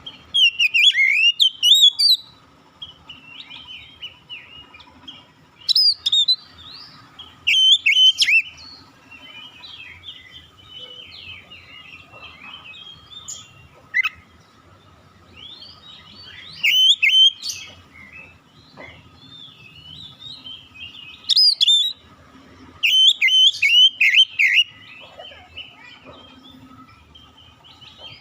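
Oriental magpie-robin singing: loud bursts of varied, quickly gliding whistles every few seconds, with softer twittering between them.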